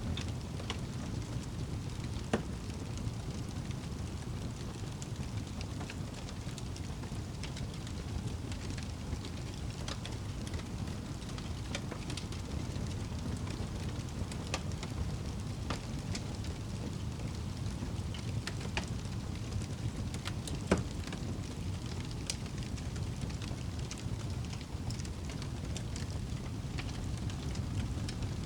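Wood fire burning in a fireplace: a steady low rumble of flames with scattered crackles, and two sharper pops, one about two seconds in and one about two-thirds of the way through.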